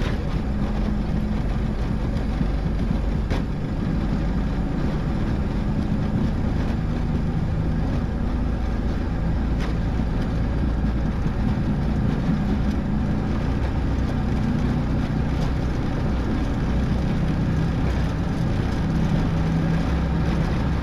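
Boeing 727-200 cockpit during takeoff, its three Pratt & Whitney JT8D turbofans at takeoff thrust: a steady rush of engine and airflow noise with a low hum underneath. A couple of faint ticks come through, about three and ten seconds in.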